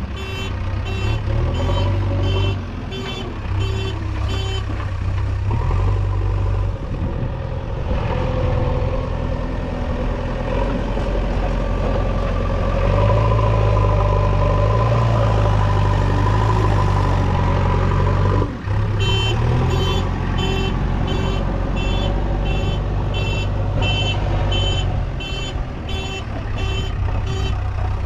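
JCB 3DX backhoe loader's diesel engine running under load, louder through the middle. A reversing alarm beeps about twice a second for the first few seconds and again through the last third.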